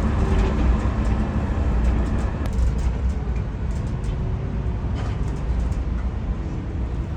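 Coach travelling on the road, heard from inside the cabin: a steady low engine and road rumble.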